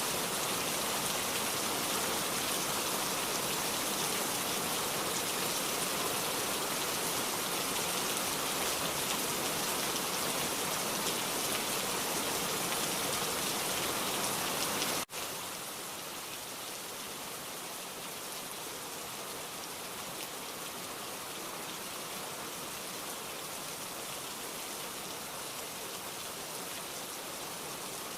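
Heavy downpour rain falling steadily in a dense, even hiss. About halfway through it breaks off for an instant and then continues a little softer.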